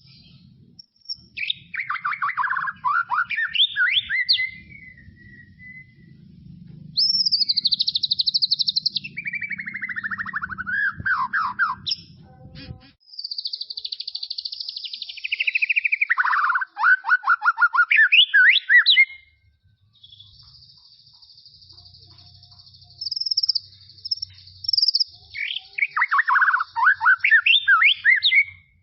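White-rumped shama (murai batu) singing loud phrases, each a rapid run of notes sweeping down in pitch, with short pauses between them. Past the middle a thin high note is held steady for several seconds before the downward runs resume.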